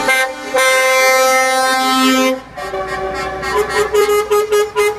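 Lorry horns sounding as a convoy passes: one loud blast held for about two seconds, then a rapid string of short toots on a lower note.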